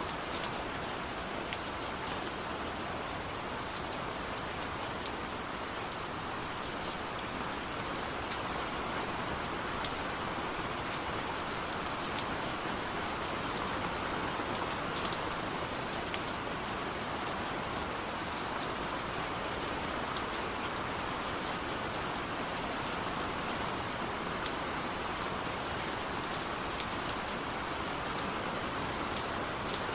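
Steady rain falling, an even hiss scattered with sharp ticks of individual drops striking a surface.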